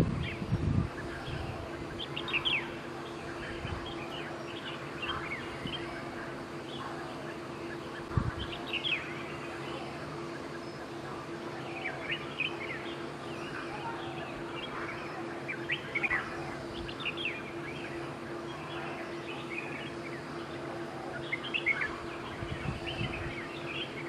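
Forest birds chirping here and there: short, high, falling chirps from more than one bird, over a steady low hum.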